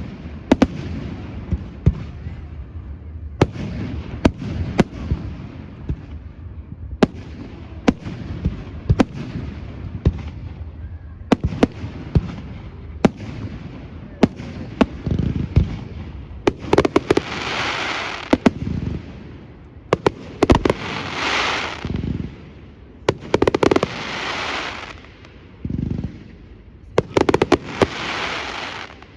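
Aerial fireworks display: a steady run of sharp bangs from bursting shells, with four longer hissing, crackling bursts of a second or two each in the second half.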